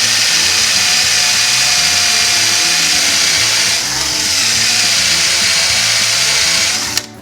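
Electric drill boring a 1/4-inch pilot hole into the head of a steel frame rivet so the rivet can be knocked out. It runs steadily, eases off briefly about four seconds in, and stops with a click about seven seconds in.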